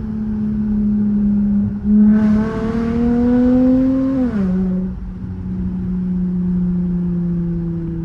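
Dodge car's engine running steadily, then revving up under acceleration from about two seconds in, its pitch climbing for about two seconds before it falls abruptly and settles to a steady lower note.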